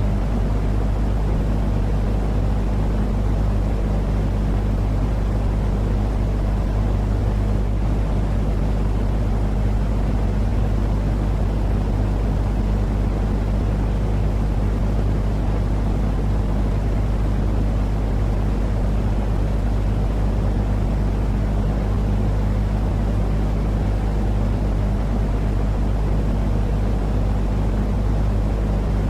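Steady, unchanging low rumbling drone from a baby-sleep 'white noise' track: a deep hum with a lighter hiss above it and no breaks.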